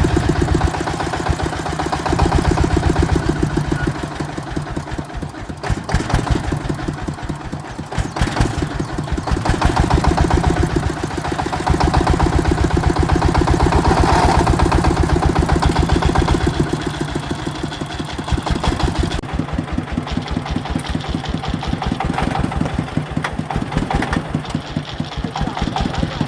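Engine of a farm vehicle running with an even, rapid beat of firing strokes. It swells louder and eases off several times, as under changing load or throttle.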